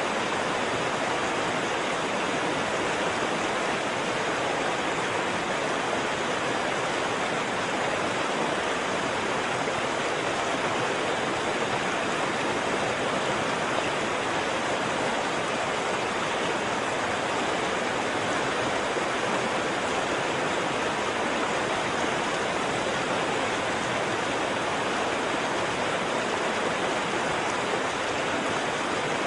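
Waterfall: water falling and rushing in a steady, unbroken roar with no distinct splashes or changes.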